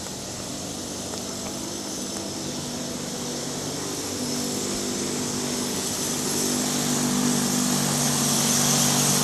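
A motor engine running steadily at an even pitch, growing gradually louder.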